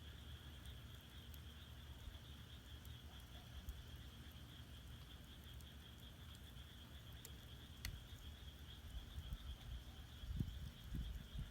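Firewood burning in an agungi (traditional Korean clay furnace), with a few faint sharp crackles, over a steady high-pitched chorus of frogs. A few low thumps come near the end.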